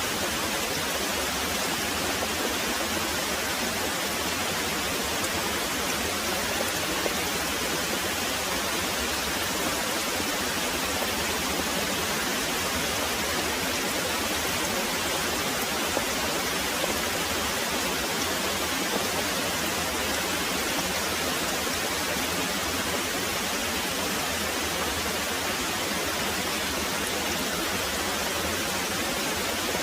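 Very heavy rain pouring steadily as an even, unbroken hiss.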